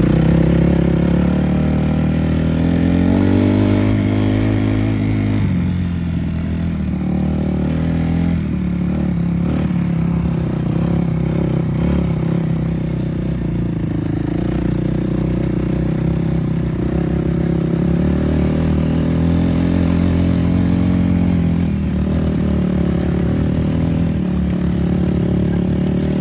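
Dirt bike engine running, its pitch rising and falling as the throttle is opened and eased off, with a longer rise and fall a few seconds in and again past the middle.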